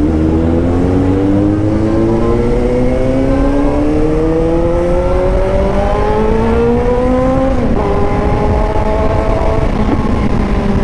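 Suzuki GSR 750's inline-four engine revving steadily higher under acceleration for about seven and a half seconds. The revs then drop sharply with a gear change and pick up again, over a low wind rumble.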